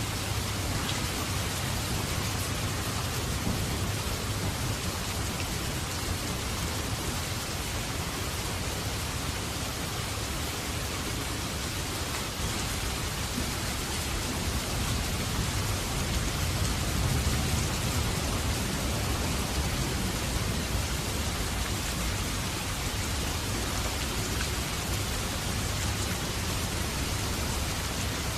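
Steady rain falling, an even hiss with a low rumble underneath that swells slightly about two-thirds of the way through.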